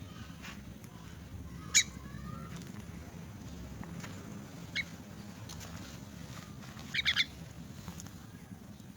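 Young myna giving short, sharp, high calls: one loud call about two seconds in, a fainter one near the middle, and a quick run of three about seven seconds in, over a low steady background hum.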